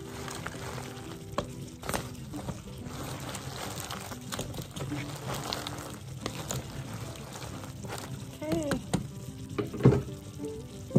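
Food sizzling in a hot pan on the stove, with scattered clinks of cookware and a sharp knock about ten seconds in.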